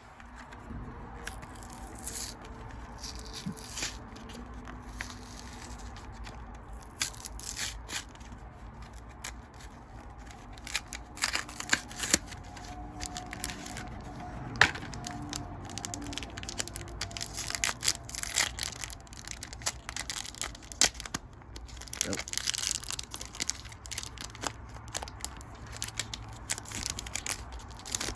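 Foil Pokémon trading-card booster pack wrappers being torn open and crinkled, with cards being handled, in a quick irregular run of rustles and crackles.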